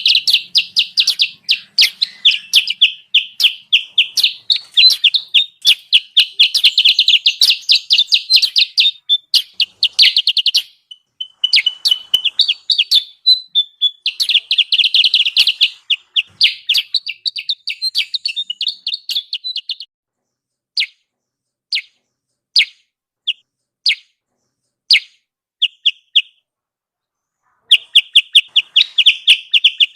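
Bird-lure recording of kutilang sutra calls: fast, dense runs of high chirps. About two-thirds of the way through, they thin to a few scattered single chirps, then the rapid chirping starts again near the end.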